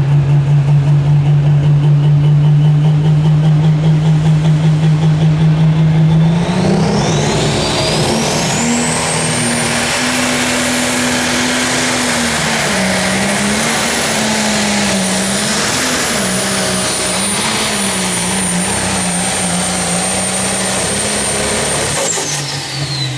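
Pro Stock pulling tractor's turbocharged diesel engine at a steady, pulsing high idle, then about six seconds in going to full power. A high turbo whine climbs and holds while the engine note wavers under load down the track. About a second before the end the power comes off and the whine falls away.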